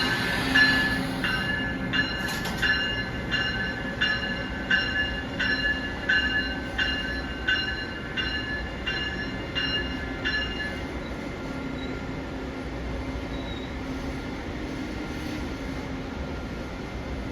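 A train passing at speed, its wheels beating over the rail in a regular rhythm of about one and a half beats a second, each beat with a metallic ring. The beats fade out about ten seconds in, leaving a steady low rumble.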